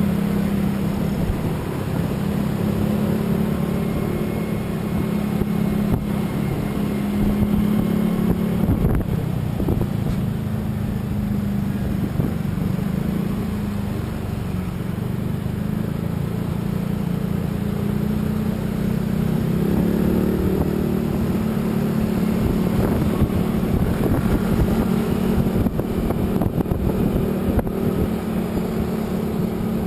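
A motor vehicle driving at a steady speed: a continuous engine drone with road and wind noise.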